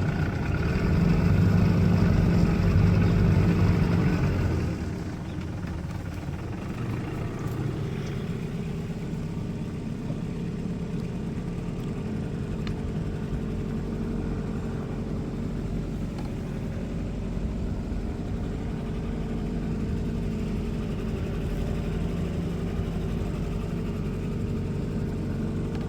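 Small canal cruiser's engine running with a steady drone, louder for the first four seconds or so, then easing back to a quieter, even running.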